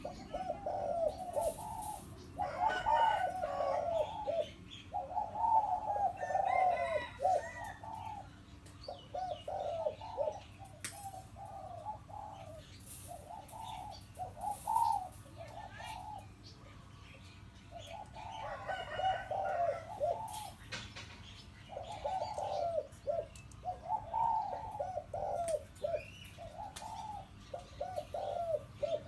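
Spotted dove, a hybrid decoy bird, cooing in repeated phrases of several low notes, with short pauses between runs. Faint higher chirps from other birds.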